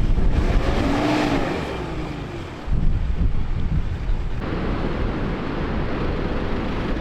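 Wind buffeting the microphone over surf noise on an open beach, with a drawn-out tone that rises and falls about a second in. Less than three seconds in, the low rumble jumps louder and stays that way.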